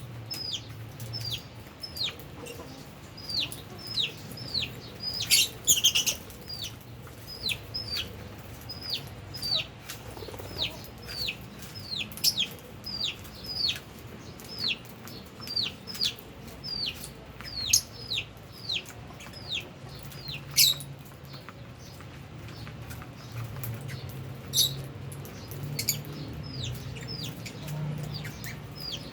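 Lovebirds calling with short, high chirps that slide downward, repeated at about two a second. After about twenty seconds the chirps become fewer and sharper.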